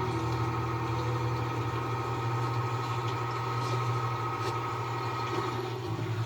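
Cartoon sound effect of a motorized machine running steadily with a low engine hum and a constant high whine.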